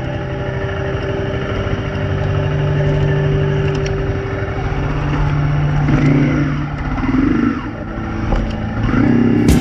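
Honda CRF250 dirt bike's single-cylinder four-stroke engine running steadily, then revved in short blips about six, seven and nine seconds in.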